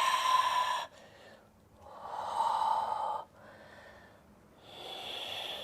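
A woman breathing deeply and audibly, in long hissing breaths: one fades out about a second in, a louder one comes at about two to three seconds, and a softer one comes near the end.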